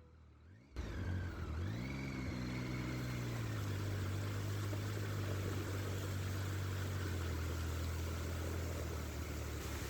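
Triumph Tiger 800 three-cylinder motorcycle engine cutting in under a second in, its pitch rising as it accelerates, then holding a steady cruise, with wind rushing over the microphone.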